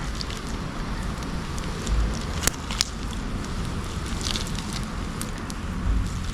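Open wood bonfire crackling, with a few sharp pops over a steady hiss and a couple of low bumps about two and six seconds in.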